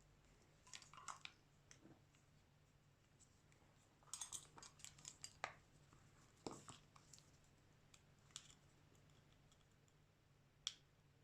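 Faint, irregular small clicks and taps of hand tools and parts being handled on a Xiaomi Redmi 9A smartphone under repair, with a quick run of clicks about four to five seconds in and one sharp click near the end.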